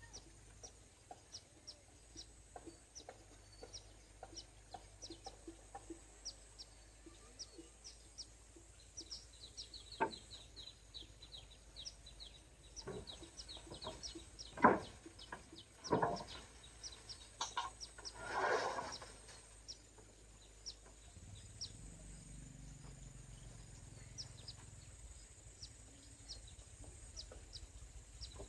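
Birds calling: a steady run of short, high chirps, with a few louder, lower calls about halfway through.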